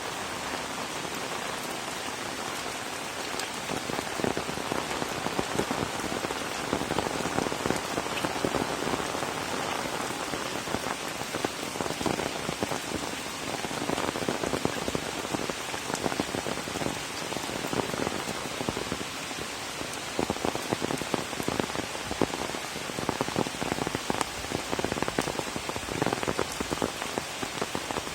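Steady rain falling, a continuous wash of noise with many separate drops striking close by.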